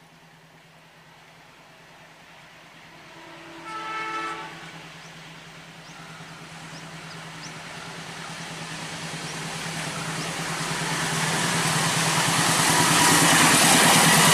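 A diesel-electric locomotive hauling a passenger train sounds one short horn blast about four seconds in. Its engine and wheel noise then grow steadily louder as it approaches at speed.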